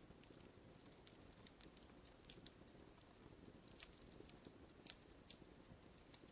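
Wood fire crackling faintly in a fireplace: scattered small snaps and pops at irregular intervals, a couple of louder ones past the middle, over a low soft rumble.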